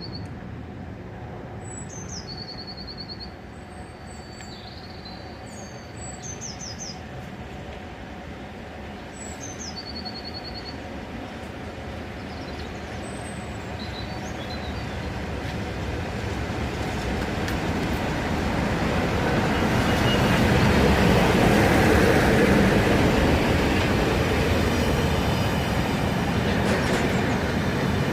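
Class 47 diesel locomotive hauling a charter train arriving, its rumble growing steadily louder to a peak a little past two-thirds through and staying loud after. Birds chirp in short high trills in the first part.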